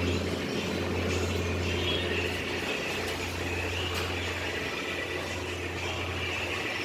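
Exhaust fans running steadily: a constant low hum under an even rush of moving air.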